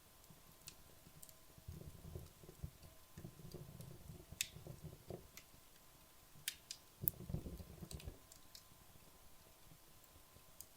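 Wood logs burning in a fireplace, faint, with scattered sharp crackles and pops and a few soft low rumbles from the flames.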